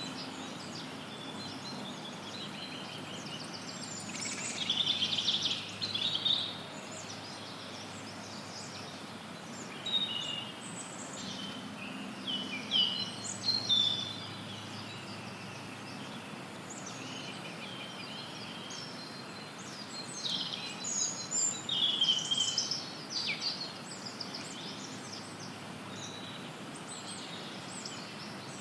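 Songbirds singing in several short bursts of chirps and warbles, over a steady hiss of added white noise.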